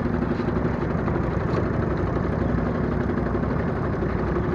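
1915 Evinrude Rowboat motor, a single-cylinder two-stroke outboard, running steadily with a rapid, even firing beat.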